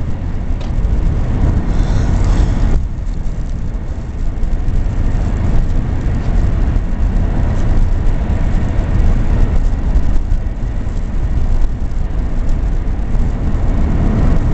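Steady road and engine rumble inside a moving car's cabin, deep and continuous.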